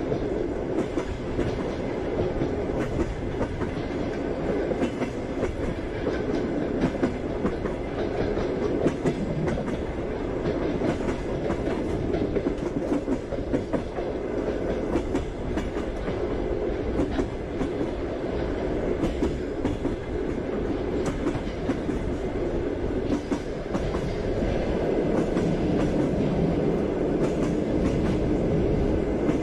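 Passenger train running on the rails: a steady rumble of the carriage with the wheels clacking over the rail joints, a little louder near the end.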